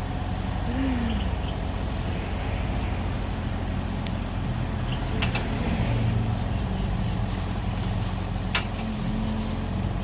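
Kubota excavator's diesel engine running steadily at idle, with a couple of short sharp clicks about halfway through and near the end.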